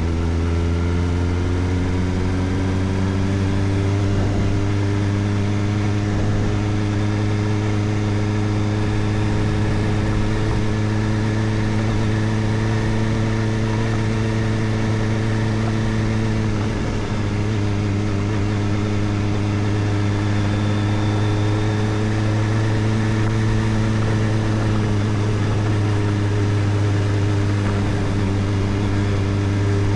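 Kawasaki Ninja ZX-4RR's 399 cc inline-four running through an Arrow Indy Race Evo titanium exhaust with its dB killer fitted, heard from on the bike. The revs rise gently over the first few seconds, then hold at a steady cruise, with a brief small dip a bit past halfway.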